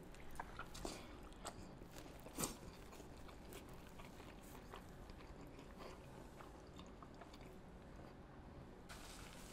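A person biting into and chewing a cheese-drenched quadruple cheeseburger: soft, scattered mouth clicks of eating, busiest in the first few seconds with one louder click about two and a half seconds in, then fainter chewing. A short burst of noise comes near the end.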